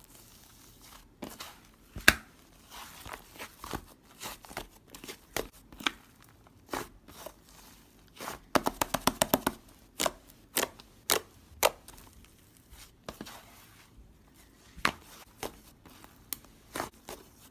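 Slime being pressed and squished, giving sharp, irregular clicks and pops, with a quick run of about ten pops a second around the middle.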